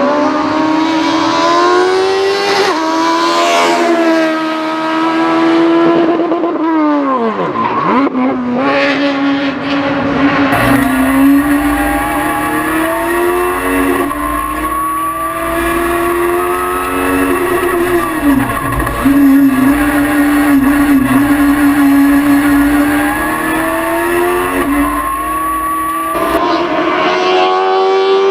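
Heard from inside the car: the high-revving 1150cc engine of a VW Polo hillclimb racer, built from a Polo block with a Honda CBR motorcycle head, under hard acceleration. Its pitch climbs and falls with each gear change and drops steeply under braking and downshifts, twice.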